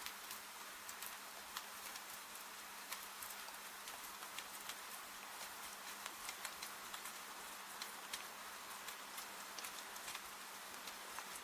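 Wood fire crackling, with frequent irregular sharp pops, over an even hiss of steady rain.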